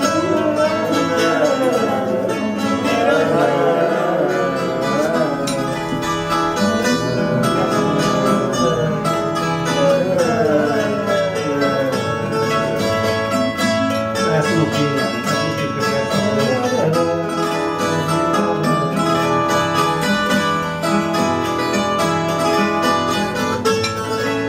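Instrumental fado interlude with no singing. A Portuguese guitar plays a winding plucked melody over the steady strummed and plucked accompaniment of a classical guitar (viola de fado).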